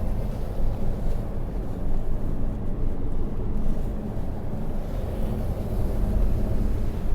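Car driving along a road, a steady low rumble of engine and tyre noise heard from inside the cabin.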